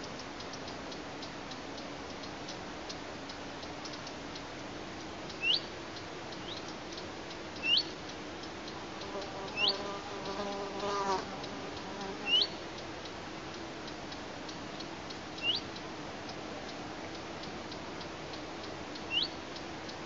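Outdoor bird calls: about seven short, sharp upward-sliding calls a few seconds apart, with a lower, longer call about halfway through. Faint regular ticking and a low steady hum lie underneath.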